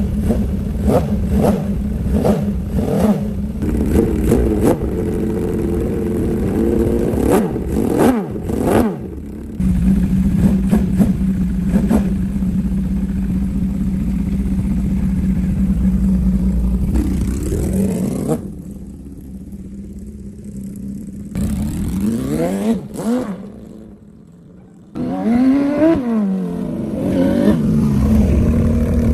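Homemade four-cylinder engine built from scrap parts running, its pitch swinging up and down as it is revved. Twice the sound drops to a much lower level, then picks up again.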